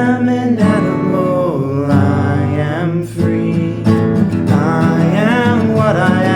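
Acoustic guitar strumming a country-style accompaniment, with a sung melody over it.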